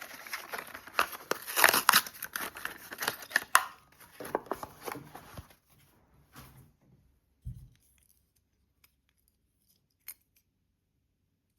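Packaging being torn open by hand: rough tearing and crinkling for about six seconds, then a single soft thump and a faint click.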